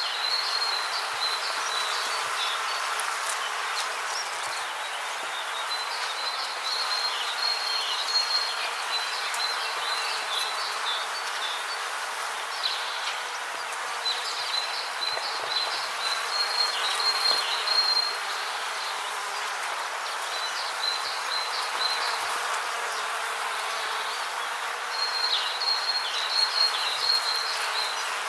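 Rainforest ambience: a steady hiss of background noise, with bouts of high-pitched chirping trills that come and go every few seconds, some with short downward slurs.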